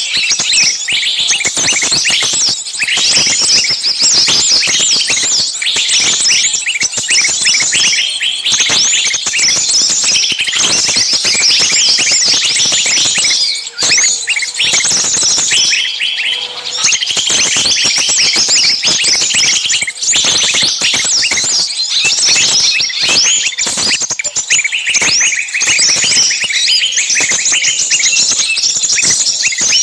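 Many small birds chirping and twittering at once in a dense, continuous chatter.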